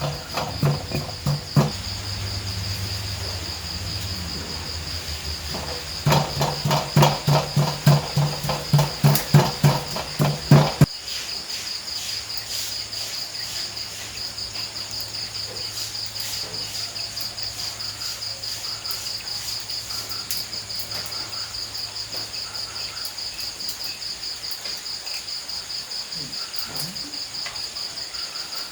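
Insects chirping in a fast, steady pulse. For roughly the first eleven seconds a series of loud knocks, about two a second, sound over it and then stop abruptly.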